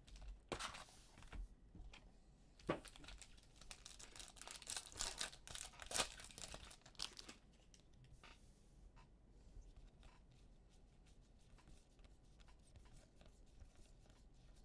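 Plastic wrapping on a box of Panini Contenders football cards being cut, torn and crinkled open. It is faint, with a run of crackly tearing strokes for about the first seven seconds, then only scattered light ticks.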